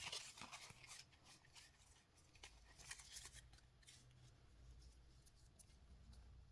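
Quiet rustling and crinkling of trading-card packs and cards being handled. The sound is busiest in the first second, with another brief flurry about three seconds in, over a faint low hum.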